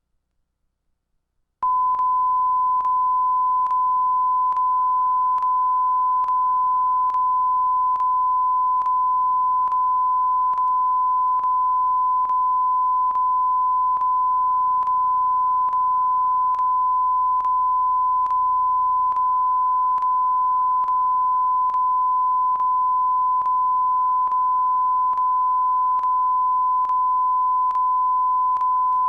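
Near silence, then about a second and a half in a loud, steady 1 kHz test tone starts and holds unchanged. A faint click recurs just under once a second, over a low hum.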